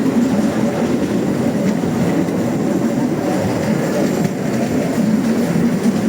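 Steady running noise of a vehicle in motion heard from on board: a continuous low rumble with a clattering rattle that does not let up.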